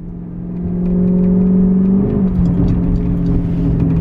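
Chrysler 300's Hemi V8 on straight pipes with all mufflers removed, pulling under acceleration. The exhaust note grows louder over the first second, steps down slightly in pitch about two seconds in, then runs on steadily.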